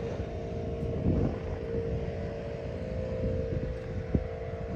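Semi truck's diesel engine running steadily: a low rumble with a steady hum over it.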